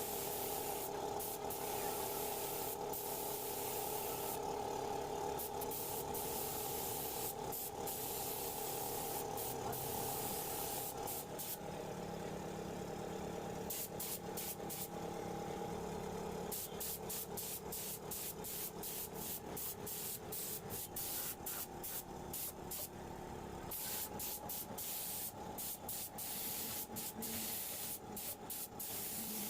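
Compressed-air paint spray gun hissing in repeated short bursts as the trigger is pulled and released, over the steady hum of a running air compressor.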